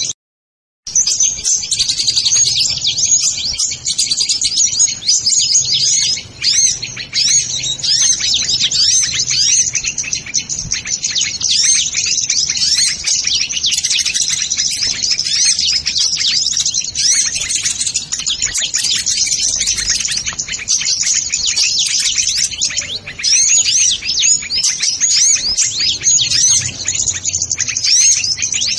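Many small birds chirping and twittering in a dense, continuous high-pitched chorus, cut by a moment of total silence about half a second in.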